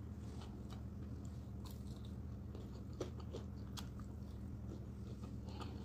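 Close-miked chewing of a mouthful of rice, stew and fried plantain eaten by hand, with scattered short mouth clicks, one stronger about three seconds in, over a steady low hum.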